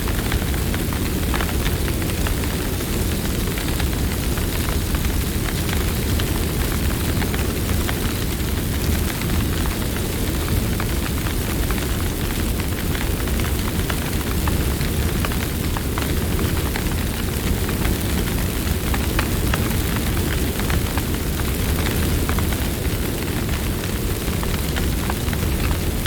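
Campfire burning: a steady low rush with many small crackles and pops scattered throughout.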